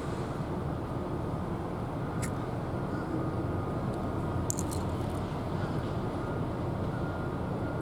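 Steady low rumble of vehicle traffic, with a few faint sharp clicks about two seconds in and again near the middle.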